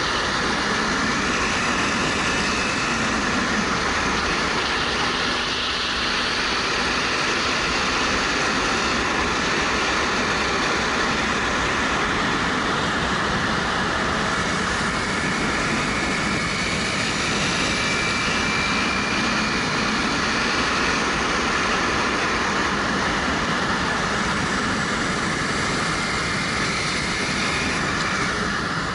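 Wind rushing over a helmet-mounted camera at riding speed, with a 2013 Suzuki GW250's 250 cc parallel-twin engine running underneath. The engine note rises and falls slightly.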